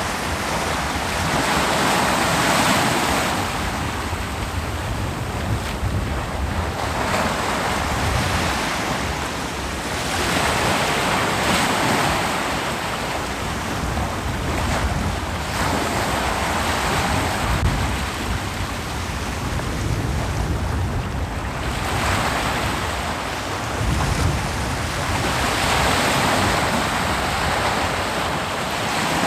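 Ocean waves breaking on a beach: a steady rushing surf that swells and eases every few seconds as each wave washes in and draws back.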